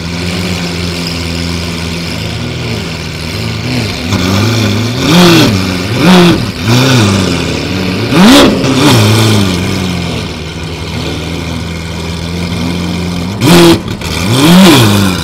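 Lamborghini Aventador V12 idling with a series of quick throttle blips, each rev rising and falling sharply. There are about six blips in all, the loudest about eight seconds in and in the last two seconds.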